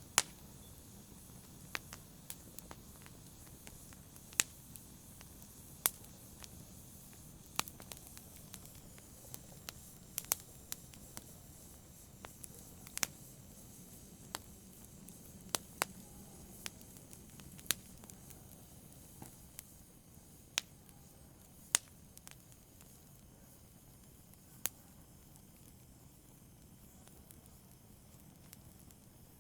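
Wood fire burning in a fireplace, crackling with sharp irregular pops over a faint low hiss; the pops grow sparse near the end.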